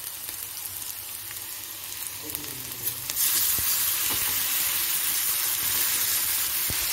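Sliced onions, garlic and curry leaves sizzling in hot oil in a kadai, stirred with a metal spoon. About three seconds in, chopped tomatoes go into the pan and the sizzle jumps to a loud, steady hiss.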